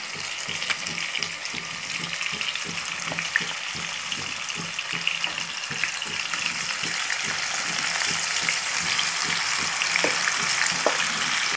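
Marinated chicken going into hot oil and ghee in a kadhai and frying with a steady sizzle that grows a little louder toward the end, with a few faint clicks.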